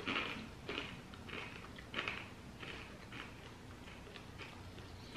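Crunchy puffed corn snack (salted butter Mighty Lil' Crunchy Corn) being chewed: a run of faint crunches about every half second that thin out after about three seconds.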